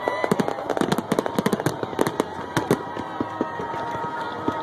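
Fireworks display: rapid volleys of bangs and crackling pops, densest in the first two seconds, then thinning out.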